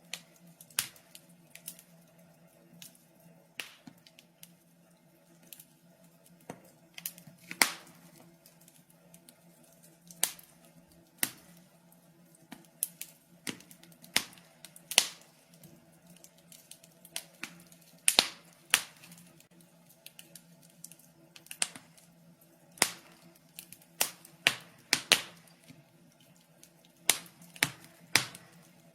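Wood fire crackling in a fireplace: irregular sharp pops and snaps, a few every couple of seconds, over a faint steady hiss of burning.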